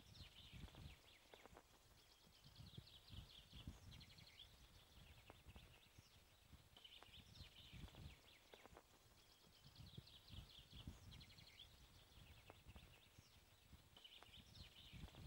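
Faint birdsong: a small bird's quick trilled phrases, repeated every couple of seconds, over scattered low bumps and rustles.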